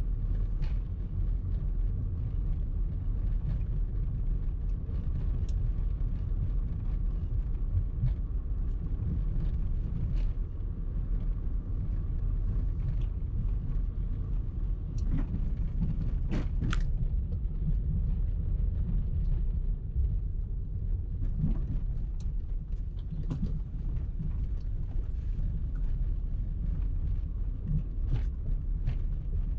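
Car driving in traffic: a steady low rumble of engine and road noise, with a few faint scattered clicks.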